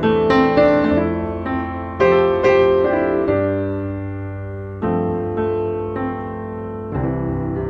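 Background piano music: slow, gentle chords struck about once a second, each fading away before the next.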